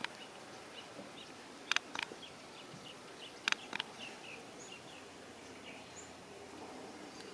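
Outdoor ambience: a steady background hiss with a few faint bird chirps and several short, sharp clicks, two of them in quick pairs about two and three and a half seconds in.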